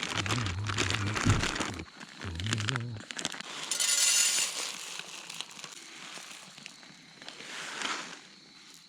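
Crinkling and rustling of handled material, with a louder burst of rustling about four seconds in and a shorter one near the end.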